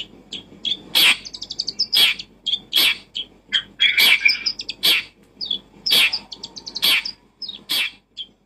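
A bird chirping: short loud calls about once a second, with quick high twittering between them.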